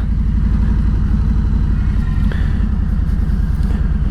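Harley-Davidson Road King Special's Milwaukee-Eight 114 V-twin running steadily, with low, even exhaust pulses. There is a short click about two seconds in.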